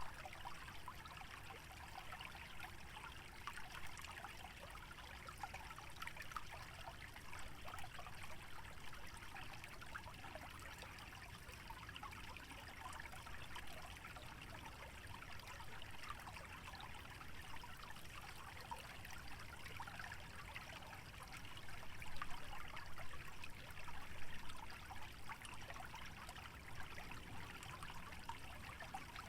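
Small wetland stream trickling steadily, a faint fine patter of many tiny splashes. A low rumble sits underneath.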